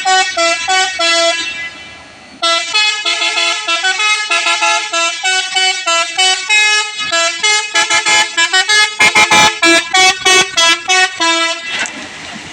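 Multi-tone musical vehicle horn playing a tune: several horn notes switching pitch rhythmically. It breaks off briefly near the start, then resumes, with rapid staccato blasts in the second half before it stops near the end.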